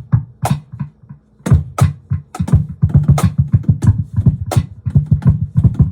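Lap cajon hand strikes played through a Digitech BP355 multi-effects pedal, with a low pitched tone under each hit from an effects preset. The hits are sparse at first, then come as a fast, dense run from about a second and a half in.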